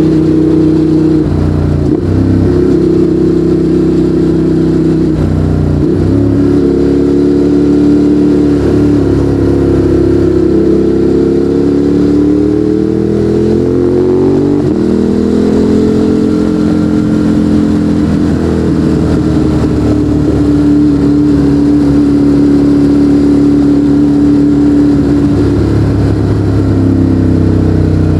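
Ducati Monster 821's 821 cc L-twin engine running through a Termignoni exhaust while riding. The note breaks briefly twice in the first few seconds, climbs steadily through the middle, then holds a fairly even pitch before shifting again near the end.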